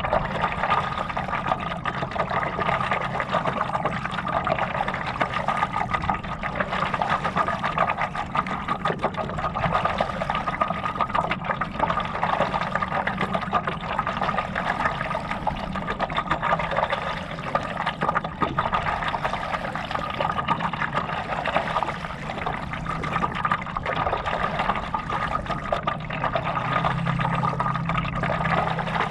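Lake water sloshing, splashing and trickling steadily around a stand-up paddleboard and paddle, with a steady hum underneath.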